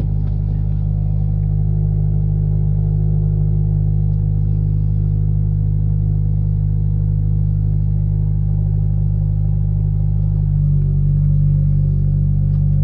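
Subaru BRZ / Toyota 86 flat-four engine with a Corsa cat-back exhaust, idling steadily at cold-start high idle, heard from inside the cabin. The deep, even drone shifts a step in tone about ten seconds in.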